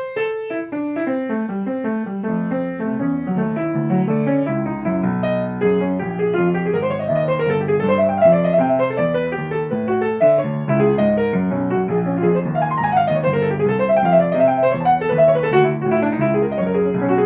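Solo piano playing: a quick falling run of notes at the start, then rippling rising-and-falling arpeggios over steady low bass notes.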